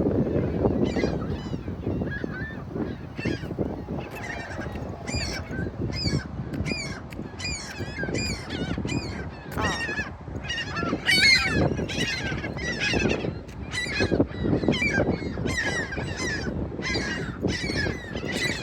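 A flock of seagulls calling loudly and continuously, many overlapping squawks and cries, over a steady low rumble.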